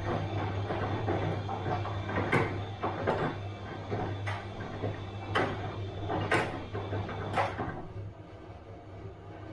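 Bosch washing machine running a wash cycle: a steady low hum with thuds and clunks about once a second as the drum tumbles the laundry, going quieter near the end.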